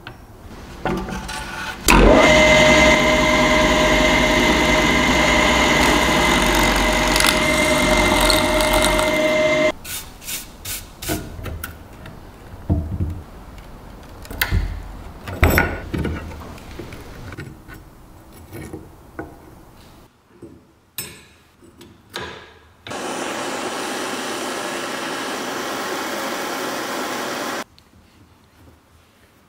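A power tool runs loudly and steadily for about eight seconds with a constant whine, then stops. A spell of scattered knocks and clinks follows as parts are handled, then a second, quieter tool run lasts a few seconds and cuts off near the end.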